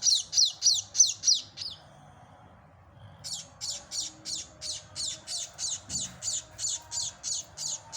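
Young munias (emprit) chirping in an even, rapid series of short, high chirps, about three a second. The chirping breaks off for a second and a half about two seconds in, then resumes a little quieter.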